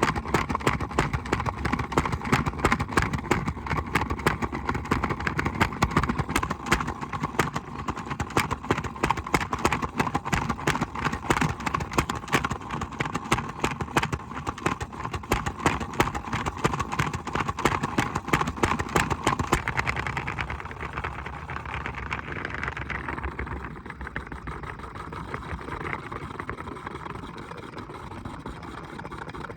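Washing machine running, with a dense, rapid clatter of knocks and clicks over its motor hum; about two-thirds of the way through, the clatter fades and it settles into a smoother, steady whir.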